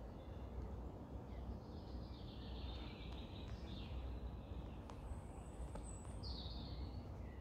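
Small birds singing: a warbling phrase about a second and a half in, a high thin note, then a short phrase near the end, over a low steady rumble.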